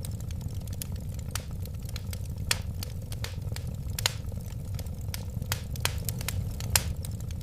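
Wood fire crackling: irregular sharp pops and snaps over a steady low rumble of the flames, with a few louder pops.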